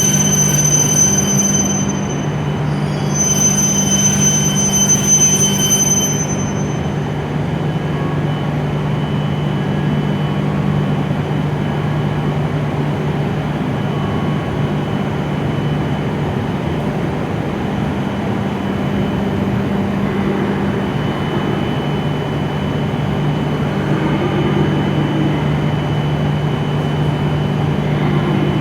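E7 series Shinkansen train at the platform, a high steady whine cutting off about six seconds in as it comes to a stop. After that the standing train's steady low hum carries on.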